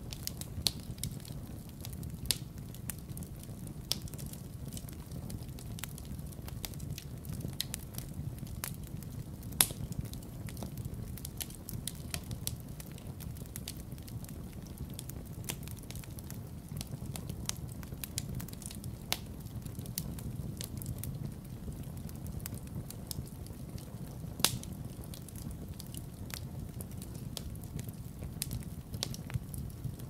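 Logs burning in a fireplace: a steady low rumble of flames with frequent sharp crackles and pops, the loudest about ten seconds in and again near twenty-five seconds.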